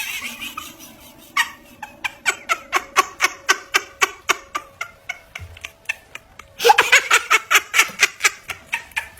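A person laughing in a long run of quick, even 'ha-ha' bursts, about four a second, growing louder near the end.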